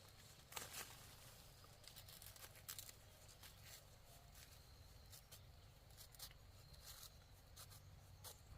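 Faint, scattered rustling and crackling clicks, irregular and short, over a low steady hum.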